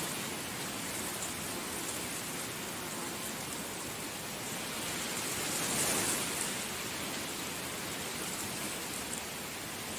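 Heavy rain falling steadily, a dense even hiss that swells briefly about six seconds in.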